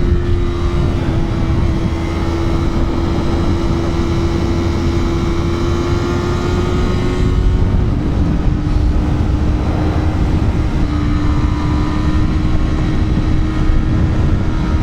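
Yamaha R3's parallel-twin engine running under way, over heavy wind rush. Its note climbs slowly, drops about eight seconds in as the bike shifts up a gear, then climbs again.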